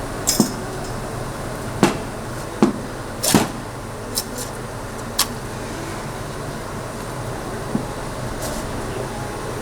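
Steady background rumble with scattered sharp knocks and clacks, about eight in all, unevenly spaced.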